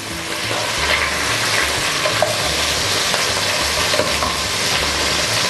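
Chicken pieces and onion rings sizzling steadily in hot oil in a frying pan, stirred and turned with a wooden spatula.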